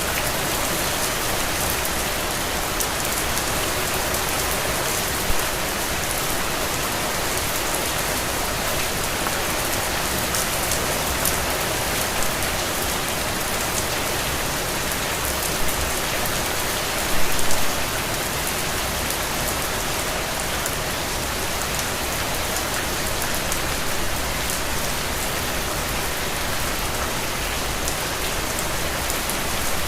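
Steady rain falling, a dense even hiss of drops pattering on a surface. A few brief louder taps stand out, the loudest cluster about 17 seconds in.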